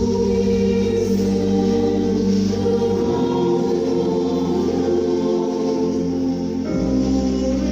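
Choir singing sustained chords, the harmony changing about three seconds in and again near the end.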